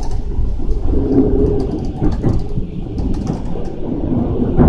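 Keikyu commuter train running, heard from inside the carriage: a steady low rumble with scattered clicks and rattles.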